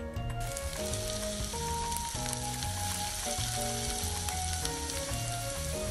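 Diced onions and bell pepper sizzling steadily in oil in a non-stick frying pan, with soft melodic background music.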